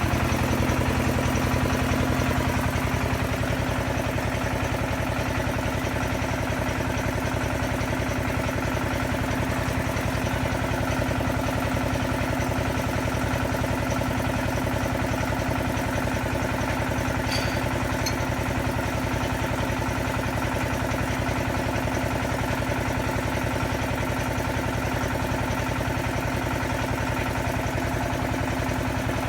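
XY-1B well-drilling rig running steadily with a constant mechanical drone, easing slightly in level about three seconds in. A brief high click sounds past the middle.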